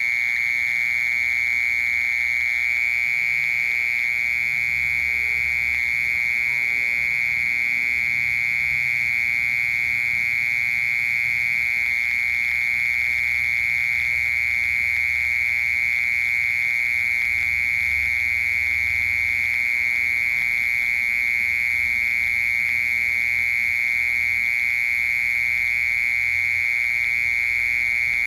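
Mole cricket singing: a continuous high trill held at one steady pitch, with no breaks.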